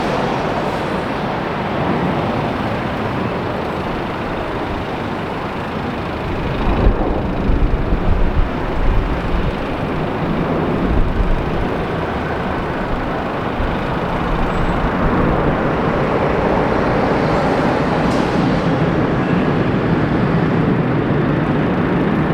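Steady, loud engine roar that swells a little in the second half, with low gusts of wind buffeting the microphone a few seconds in.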